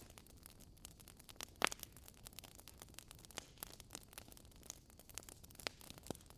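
Wood fire in a fireplace crackling: a faint steady hiss broken by scattered sharp pops, the loudest about a second and a half in and a few smaller ones later.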